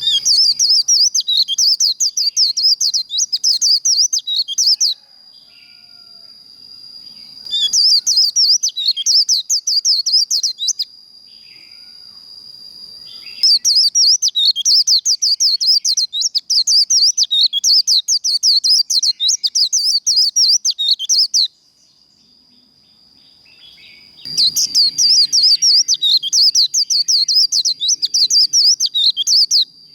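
White-eye (vành khuyên) singing its rapid, chattering 'líu' song in four long bursts of fast high twittering notes with short pauses between. Under it runs a steady high-pitched tone.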